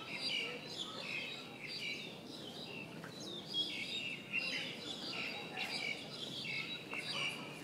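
Small birds chirping in the trees: a dense, overlapping run of short high notes, some sliding down in pitch, over a faint steady low city hum.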